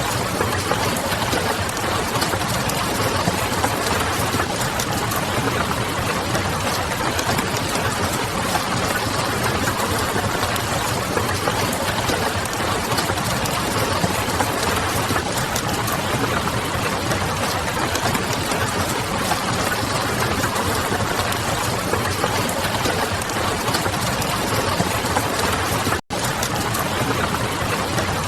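Steady rain pattering on a window mixed with the crackle of a wood fire and a low, distant city hum. The sound drops out for an instant a couple of seconds before the end, then resumes unchanged.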